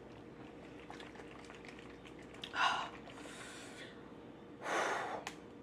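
A person breathing out hard twice through the mouth, short airy hisses about two seconds apart, the second louder, as if to ease the burn of very hot sauce.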